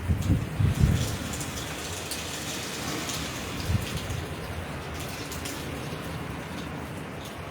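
Heavy hurricane rain falling steadily, with low rumbling gusts of wind hitting hardest in the first second.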